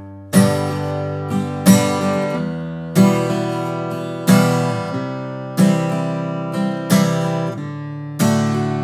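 Acoustic guitar strummed in the campfire rhythm, with a hard, loud strum about every second and a quarter and lighter strokes between, changing chords a few times. The backbeat accents are bashed out across all strings, the heavy-handed way of stressing beats 2 and 4 that is called something to avoid.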